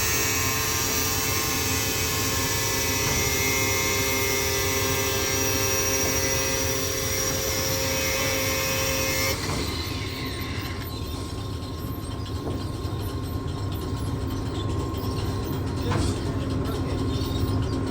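Angle grinder with a cutoff wheel running and cutting through a seized steel bucket bolt on a grain leg belt. It stops abruptly about halfway through, leaving a steady low hum.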